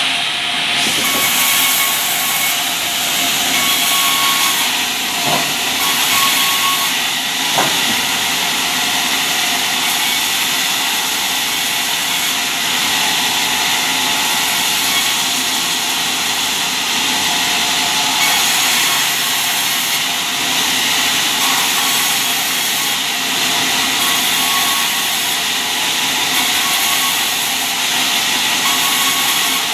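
Sawmill saw running through timber: a loud, steady hissing machine noise, with a couple of short knocks about five and seven and a half seconds in.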